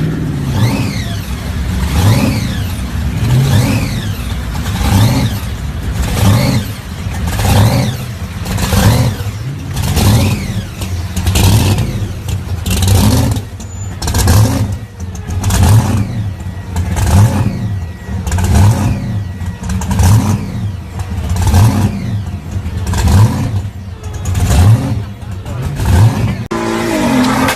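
Car engine revving in repeated surges, rising and falling in an even rhythm about once a second.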